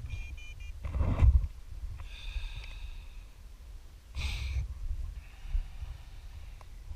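Wind buffeting the microphone in a low rumble, with two loud gusts or breaths about a second in and about four seconds in. A few short high beeps sound right at the start.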